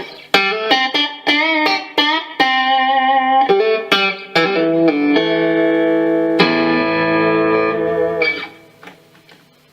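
Fender Stratocaster electric guitar played on its middle pickup with the tone controls fully open: a short picked phrase of single notes and double-stops, then a chord held for about two seconds that dies away near the end.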